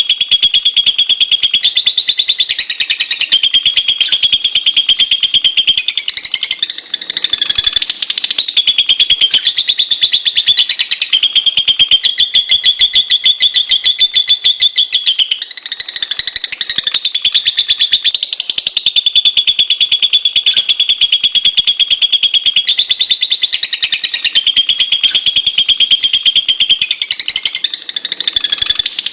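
Lovebird chattering without pause, a loud, shrill, very rapid trill that wavers up and down in pitch, with brief lulls about 7 and 28 seconds in.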